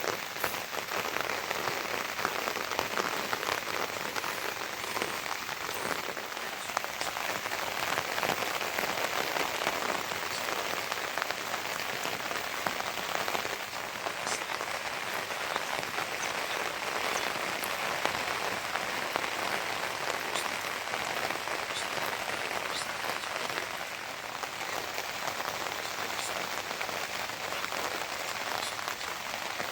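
Steady rainfall: an even hiss with scattered ticks of individual drops.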